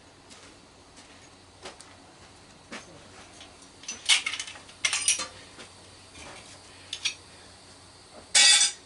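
Scattered metal clinks and clatters of tools and parts while a microwave is taken apart for scrap, with a louder scraping rattle lasting about half a second near the end.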